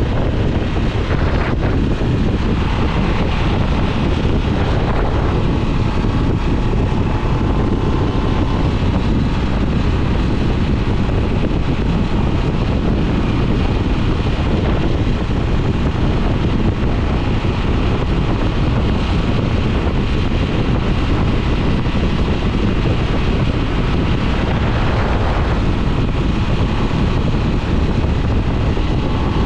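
2022 Harley-Davidson Nightster's Revolution Max 975T V-twin engine and exhaust running steadily while riding, with wind buffeting the microphone.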